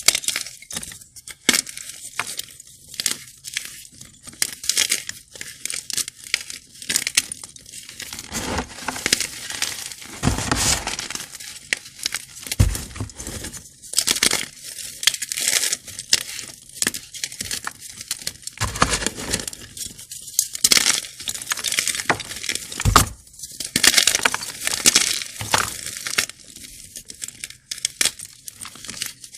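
Gym chalk blocks, coated in sand and glitter, being crushed and crumbled: a dense, irregular run of crisp crunches and crackles, with a few deeper, heavier crunches along the way.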